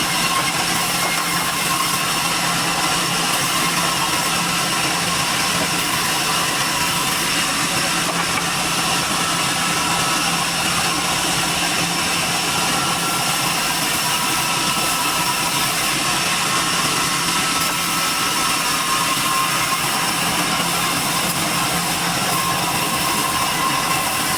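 Sawmill machinery running steadily, a constant mechanical noise with several high steady whines over it.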